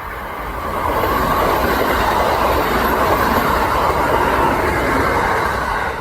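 Kintetsu electric train passing: a steady rushing of wheels on the rails that builds about a second in and falls away near the end.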